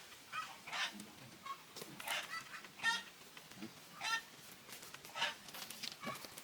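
Poultry calling: a string of short, repeated calls, roughly one a second.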